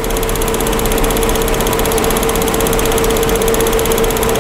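Vehicle engine idling steadily, with a steady mid-pitched whine running over it.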